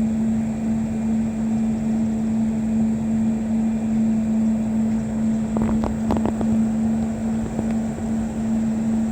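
A steady low motor hum over rumbling wind noise, with a few short knocks about six seconds in.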